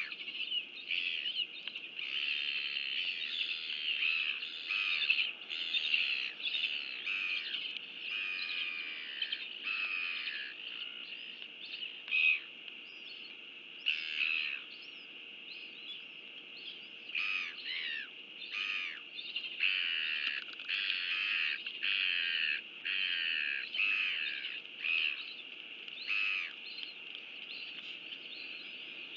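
Wild birds calling over and over: short harsh calls and chirps, dense for most of the stretch and thinning out in the middle, over a steady high-pitched background.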